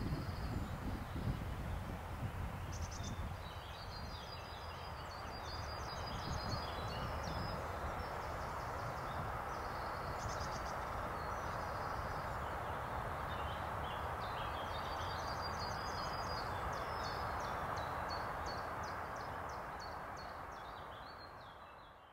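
Songbirds singing in repeated short chirps and trills over a steady outdoor background noise. A low rumble dies away in the first couple of seconds, and the whole sound fades out near the end.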